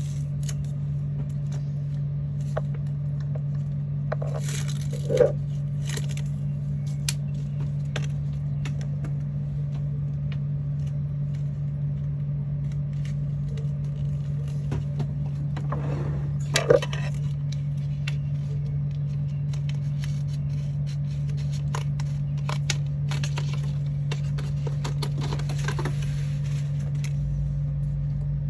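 Craft materials being handled at a work surface: rustling, scraping and small clicks, with two louder knocks about five seconds in and again about seventeen seconds in. A steady low hum runs underneath.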